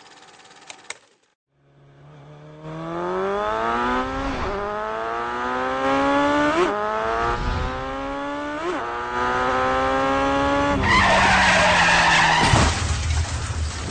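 A car engine revving up through the gears, its pitch climbing and dropping back at each of three shifts, then a loud tyre screech near the end with a sharp bang at its close.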